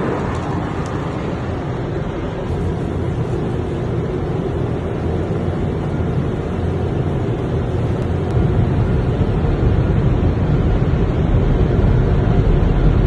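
Steady rushing noise of automatic tunnel car wash equipment working over the car, heard from inside the car, getting louder about eight seconds in.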